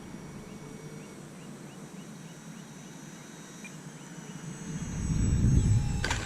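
A small bird chirping outdoors, a run of short rising notes about three a second, over a faint steady high whine. About five seconds in, a low rumble swells up and becomes the loudest sound.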